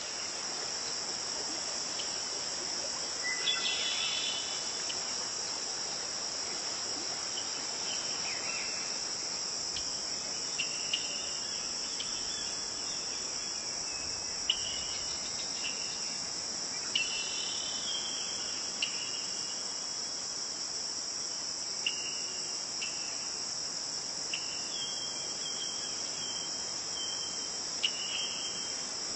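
Steady high-pitched chorus of crickets, with short chirping calls scattered over it every second or two.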